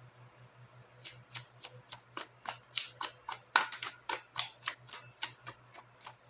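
Tarot cards being shuffled and handled: a quick run of sharp card clicks and slaps, about four a second, starting about a second in.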